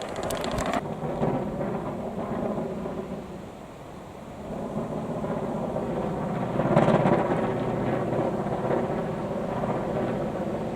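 Strong gusty wind buffeting the microphone with a low rumble, easing about four seconds in and surging again about seven seconds in.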